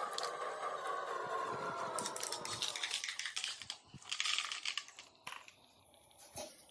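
A toy tractor's small electric motor whines with a slowly falling pitch and fades out about two and a half seconds in. Scattered clicks and crackling, rustling noise follow.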